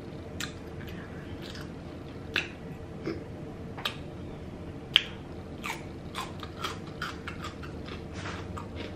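Close-miked eating sounds: chewing with wet mouth clicks and smacks, scattered irregularly and a few louder than the rest, over a steady low background hum.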